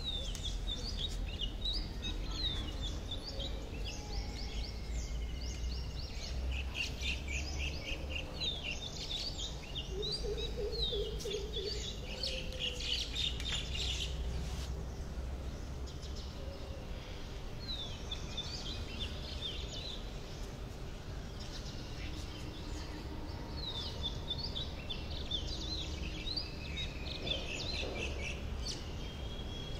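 Several small birds chirping and trilling in quick, overlapping calls, over a steady low rumble.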